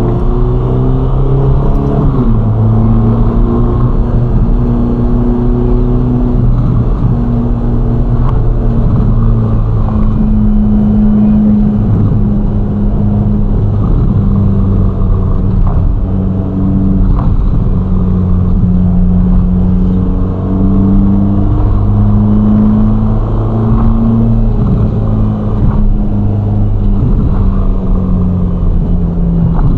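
Ferrari Roma's twin-turbo V8 engine running at a steady cruise, a low drone that shifts up and down a little in pitch every few seconds, over steady road and tyre noise.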